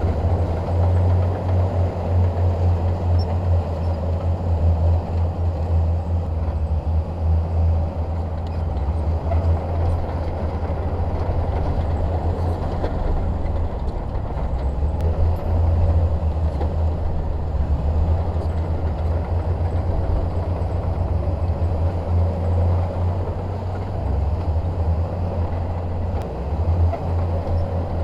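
Bulldozer's diesel engine running steadily under working load, a continuous deep drone that rises and falls slightly in loudness.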